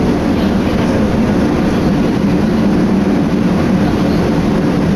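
Running noise of an electric commuter train travelling at speed: a steady, loud rumble of wheels and motors, with wind buffeting the microphone through an open window.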